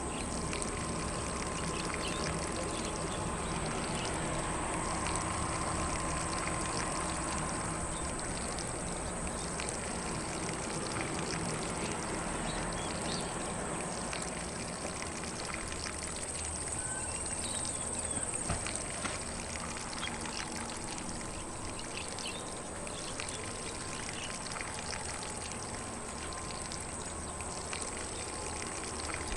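Lawn sprinkler spraying water onto grass: a steady hiss of spray with the fine patter of falling droplets.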